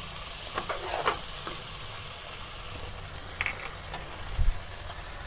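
Beef and creamy masala sizzling in a nonstick wok over a high flame while a spoon stirs and scrapes through it, with a few light clicks early on and a dull knock near the end. The masala is being fried down (bhuna) on raised heat.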